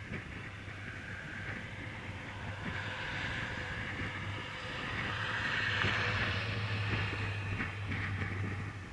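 Steady rushing vehicle noise over a low hum, growing louder from about three seconds in.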